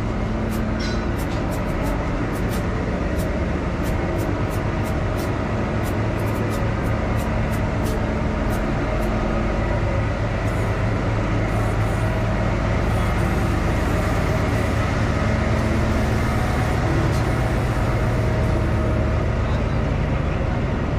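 Kalka–Shimla narrow-gauge toy train running along the track: a steady rumble, with light, regular clicking through the first half.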